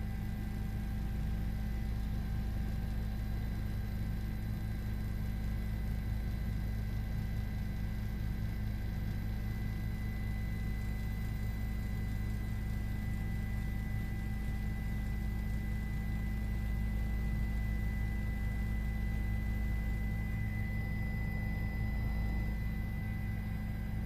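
Steady drone of a news helicopter's turbine and rotors heard from inside the cabin: a low rumble with a few thin, steady high whining tones over it.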